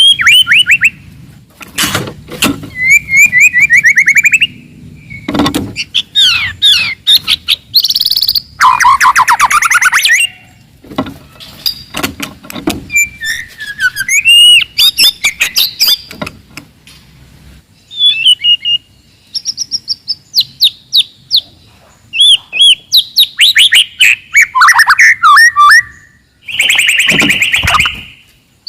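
Wild white-rumped shama singing a very loud, aggressive song: a fast, varied run of gliding whistles, rapid trills and sharp clicking notes in bursts, with short pauses between them.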